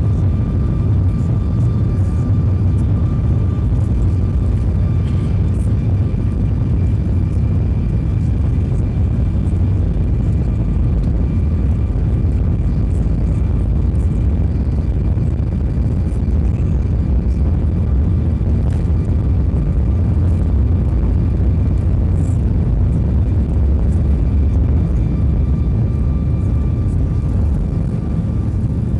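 Boeing 737-800's CFM56-7B jet engines running at takeoff power: a steady deep rumble with a faint, steady high whine over it.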